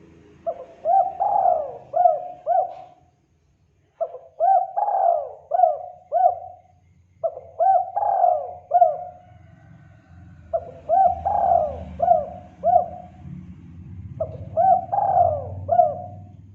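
Spotted dove cooing: five phrases, each a quick run of four or five rising-and-falling coos, a few seconds apart. It is a lure call used to draw wild doves.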